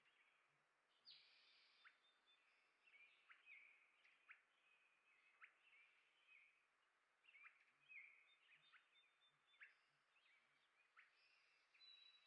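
Faint songbirds chirping: a continual run of short, sharp calls, sometimes several a second and overlapping.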